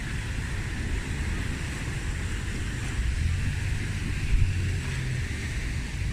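Wind buffeting the microphone over a steady rushing hiss, with a stronger gust a little past the middle.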